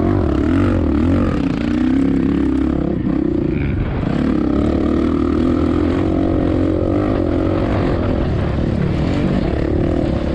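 Motocross bike's single-cylinder four-stroke engine, a 2007 Suzuki RM-Z450, running hard on track with its pitch rising and falling as the throttle opens and closes, with wind buffeting the microphone.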